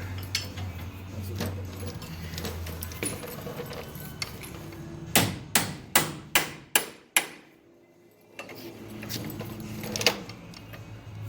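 Hammer striking steel front-suspension parts on a 1978 Chevy C10 to free the coil spring: a quick run of six sharp metallic blows, getting weaker, then one more blow near the end. A steady low hum runs under it, except during a short lull after the blows.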